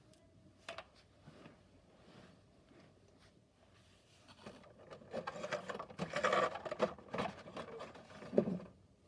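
Cardboard playset parts being handled and pushed together: a few light clicks, then from about halfway in a busy stretch of rubbing, scraping and clicking, with a knock near the end.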